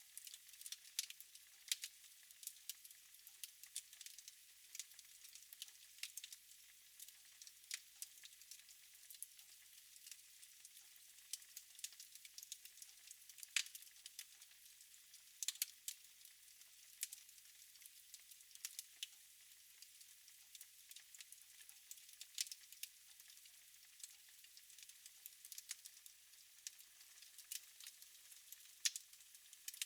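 Wood fire in a fireplace crackling quietly, with frequent small irregular pops and a few sharper snaps over a faint hiss.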